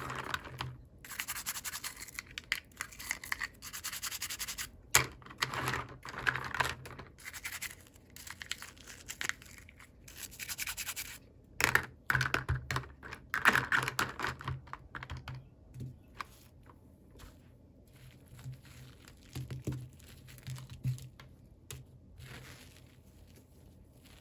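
Close-up handling of toy packaging during an unboxing: irregular scratching, rustling and sharp clicks of fingers working at plastic and paper wrapping. It is busy for about the first fifteen seconds, then sparser and quieter.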